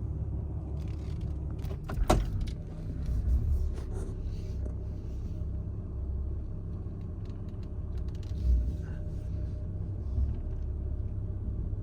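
A vehicle engine idling with a steady low hum, with a sharp click or knock about two seconds in and a few lighter knocks later.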